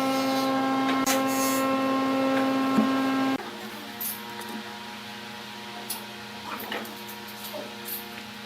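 Wood lathe motor running with a steady hum and a few brief scrapes. About a third of the way in the hum drops abruptly to a quieter, lower hum, with small scattered knocks.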